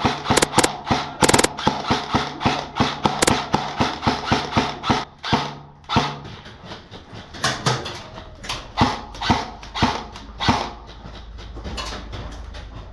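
Airsoft guns firing in a close-quarters game: sharp shots several a second, with a quick burst about a second in. After about six seconds the shots come fewer and further apart.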